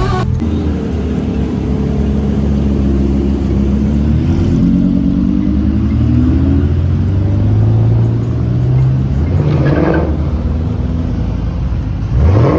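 Car engines running at low speed, their pitch slowly rising and falling, with a short sharp rev about ten seconds in and another rising rev near the end.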